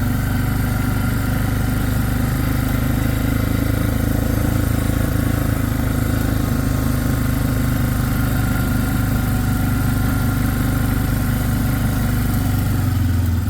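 Engine of a small vehicle running at a steady pace, heard from on board.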